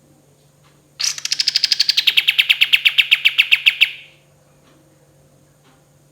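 A kapas tembak bulbul giving its rapid 'tembakan' trill: one string of about ten quick notes a second lasting about three seconds, sliding down in pitch and growing louder before stopping abruptly.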